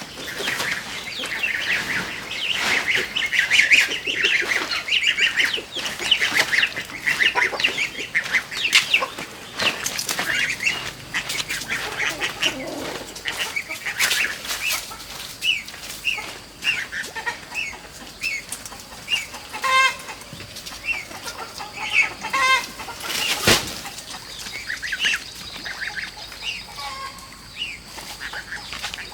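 Chickens clucking and calling in many short, repeated notes, with wings flapping now and then and a few sharp knocks, the loudest about two-thirds of the way through.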